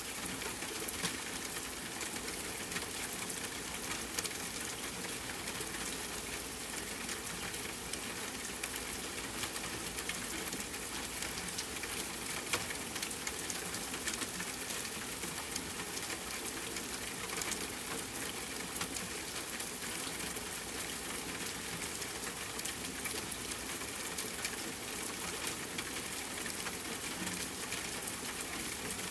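Steady rain falling: an even hiss, dotted with many small drop clicks, that stays the same throughout.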